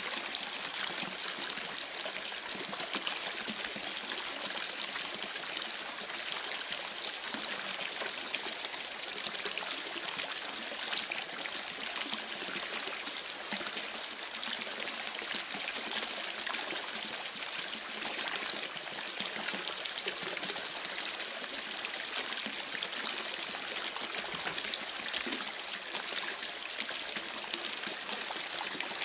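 A creek babbling and trickling steadily, mixed with the crackle of a campfire.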